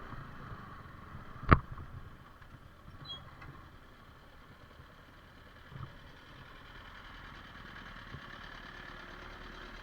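Yamaha R15 V4 motorcycle engine running steadily on a rough dirt track, with one sharp loud knock about a second and a half in.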